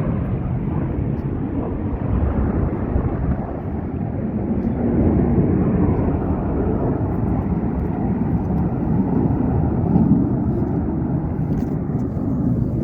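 Steady jet engine noise from the Thunderbirds' F-16 fighter jets in flight, a deep rumble that swells and eases slightly.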